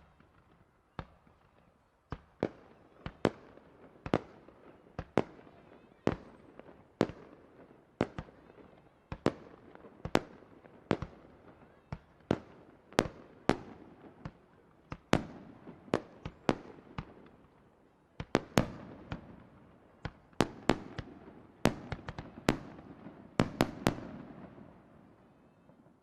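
Aerial fireworks shells bursting in rapid succession, a sharp report every half second to second with crackle and rumble between. The barrage thins and dies away near the end.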